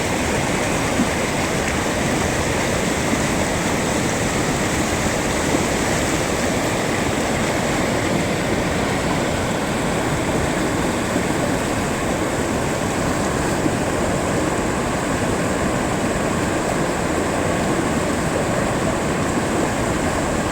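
Mountain river rushing over rocks: a steady, loud wash of turbulent water.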